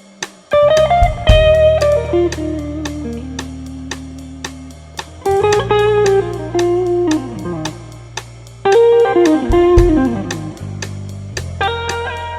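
Electric guitar playing a melodic soul solo in phrases with falling runs, over sustained low bass notes and a steady hi-hat beat.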